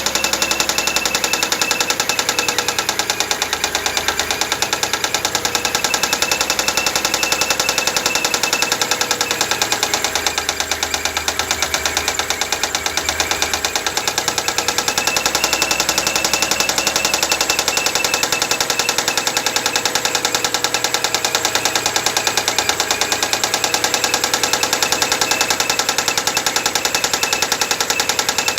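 Mitsubishi 6G74 V6 engine running after a cold start, with a fast, steady knock that keeps time with the engine.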